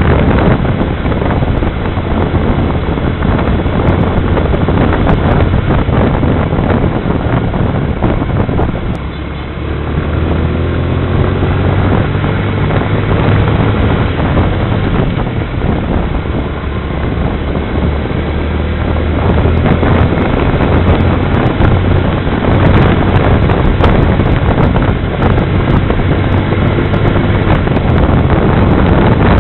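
Suzuki Raider motorcycle running on the road, under heavy wind noise on the microphone. About nine seconds in it eases off briefly, then rises in pitch as it picks up speed again.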